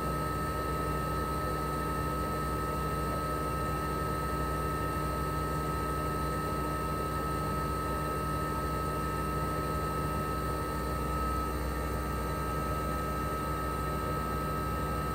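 Toshiba RAS-285BAD mini-split outdoor unit running steadily in cooling mode: its twin-rotary compressor hums evenly under the rush of the propeller fan, with a steady high whine on top.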